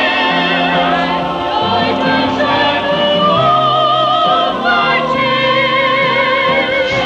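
Church choir singing long held notes with vibrato between lines of the refrain, the notes moving every second or so over steady lower parts.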